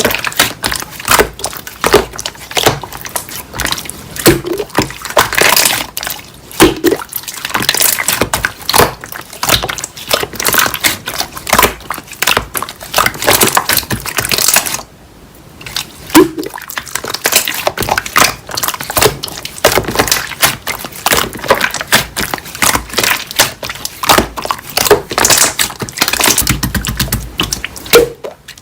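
Slime being squeezed, pressed and stretched by hand: a quick, irregular run of wet clicks, pops and squelches, pausing briefly about halfway through.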